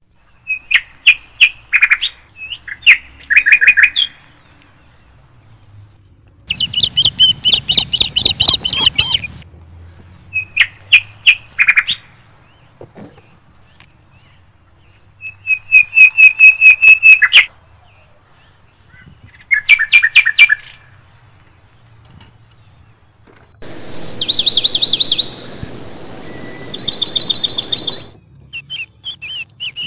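Birds chirping in bursts of rapid repeated high notes, each burst lasting one to a few seconds with pauses between.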